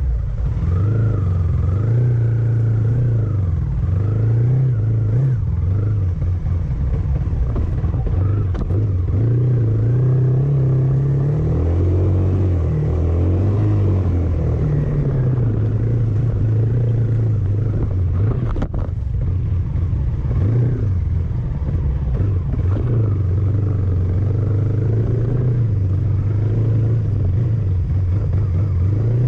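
A road vehicle's engine running steadily, its low drone rising and falling in pitch throughout.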